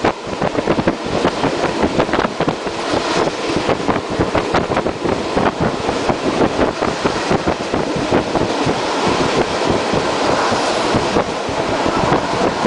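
A passenger train running along, heard from on board: a loud, steady rush with wind buffeting the microphone and dense rattling and clatter throughout.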